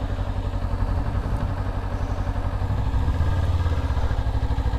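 Motorcycle engine running steadily at low revs while the bike is ridden slowly, getting a little louder about three seconds in.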